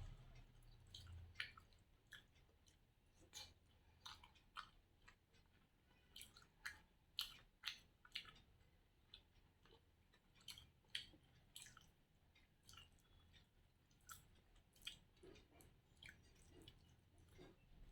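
Close-up chewing of rice and curry eaten by hand: soft, irregular mouth clicks and smacks, about one or two a second.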